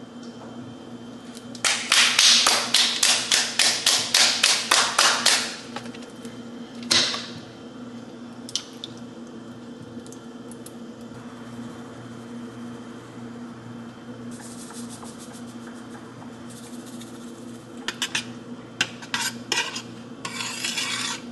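A metal utensil clanking rapidly against a cooking pot, about five strikes a second for a few seconds, then a single knock and lighter clinks later on, over a steady low hum.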